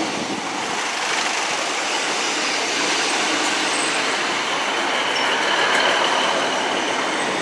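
A train moving at the platform: a steady rumbling hiss with faint high-pitched wheel squeals coming in about halfway through.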